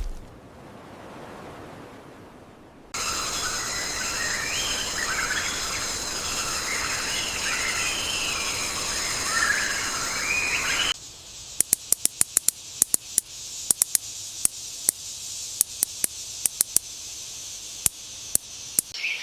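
Rainforest soundscape: a steady high insect drone with warbling bird calls over it, starting abruptly about three seconds in. About eleven seconds in it changes suddenly to sharp, irregular clicks over a thin high hiss.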